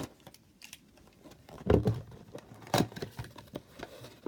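Cardboard trading-card box being handled and opened by hand: scattered light clicks and rustles, with a couple of louder knocks about two seconds in and another a second later.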